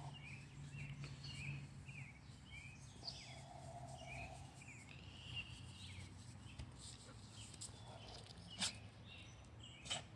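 Faint background birdsong: a run of short, quick downward chirps, with a low hum beneath at first. Two sharp clicks near the end.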